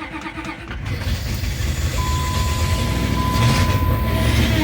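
Truck engine cranking on the starter for about a second, then catching and running, growing louder. A thin steady whine sounds for about two seconds in the middle.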